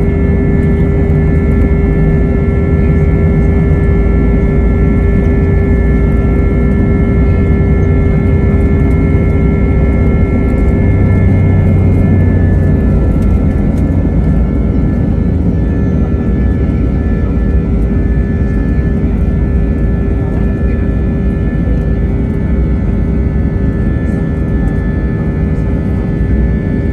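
Airbus A320's two IAE V2527-A5 turbofan engines at high thrust, heard inside the passenger cabin: a loud, steady rumble with a steady hum and several high whining tones.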